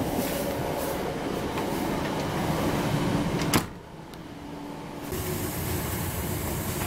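Interior running noise of a Class 319 electric multiple unit on the move, a steady rush with a low hum. About three and a half seconds in there is a sharp click, the sound drops away for about a second and a half, then the running noise comes back.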